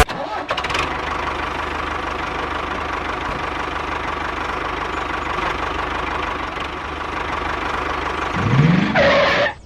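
Small motor of a miniature model machine running steadily with a rapid chugging rattle. A rising whine comes in near the end.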